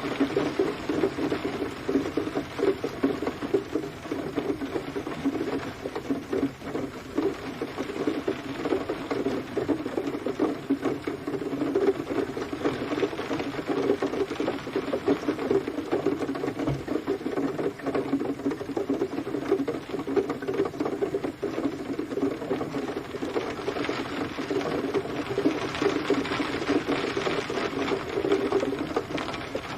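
Steady rain pattering: a dense, even crackle of drops hitting a surface, with no thunder.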